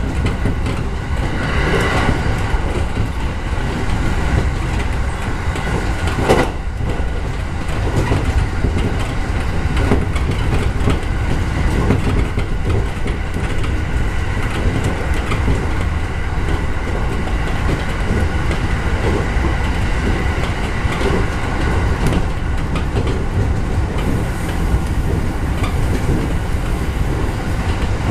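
JR 209 series electric train running, heard from inside the front car: a steady rumble of wheels on rail with occasional knocks, the sharpest about six seconds in.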